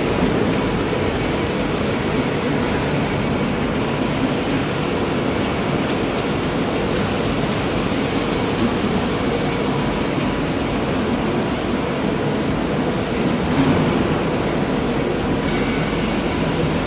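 Paint-stripping carbonization furnace running on trial: a steady mechanical noise with a faint constant hum through it.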